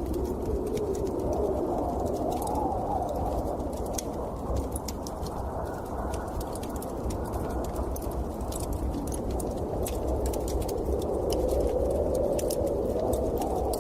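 Storm wind howling, its pitch slowly rising and falling in long swells over a steady low rumble, with scattered light ticks.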